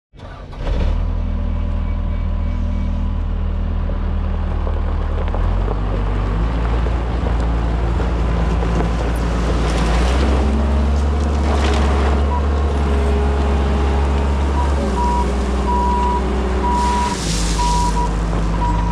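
Case 90XT skid steer's diesel engine running, its pitch stepping up and down several times as the machine is worked, with a few short noisy bursts. A backup alarm beeps steadily through the last third.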